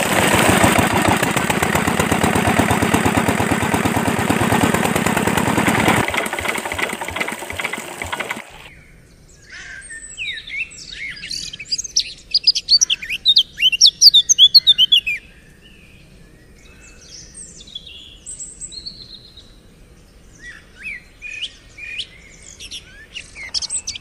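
A miniature model engine-driven water pump running with a fast, even chatter, fading and cutting off about eight seconds in. Then loud bursts of quick, high bird chirps with quiet gaps between them.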